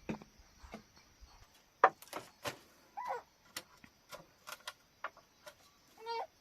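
Irregular sharp knocks and clicks, like hard material being struck or handled, with two short wavering calls, one about three seconds in and one near the end.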